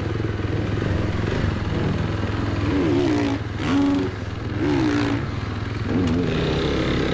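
Motocross dirt bike engine revving up and down repeatedly, its pitch rising and falling over and over as it is ridden.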